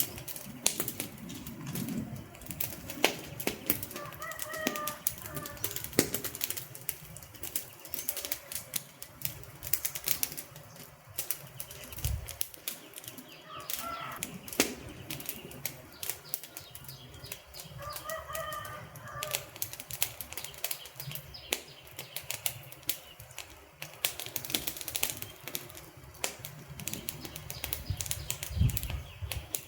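Wood fire crackling, with dense, irregular sharp pops and snaps over a soft steady hiss. Three times a short pitched sound rises faintly above the crackle.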